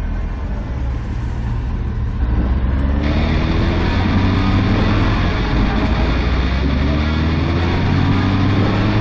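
Honda 919 motorcycle's inline-four engine running under way, its note climbing from about two seconds in as the bike accelerates.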